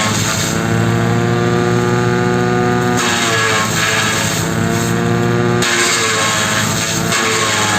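Tractor engine driving a shredder machine, running loud and steady. Its pitch dips briefly and recovers just after the start and again about three seconds in.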